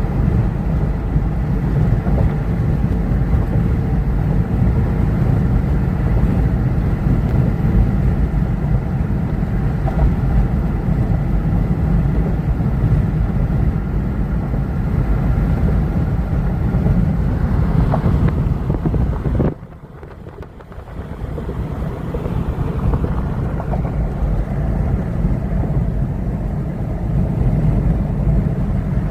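A motor vehicle's engine running steadily under way, with wind buffeting the microphone. The sound drops off sharply about two-thirds of the way through, then builds back up over a couple of seconds.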